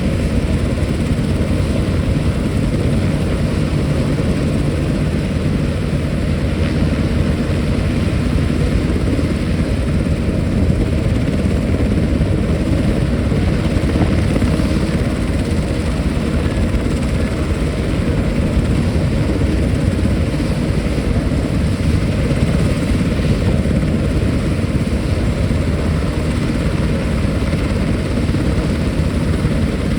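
Military helicopter running, its rotor and turbine a loud, steady noise throughout.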